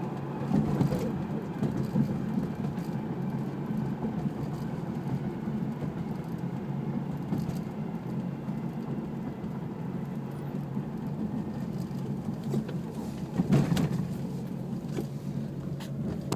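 A steady low whirring, with a brief louder knock about thirteen and a half seconds in.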